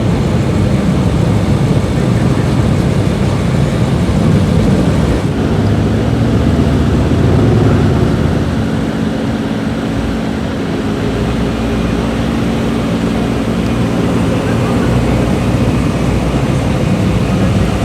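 BMW M5 F10's twin-turbo V8 with an Akrapovic exhaust, running steadily at low revs with a deep, even drone and no big revs.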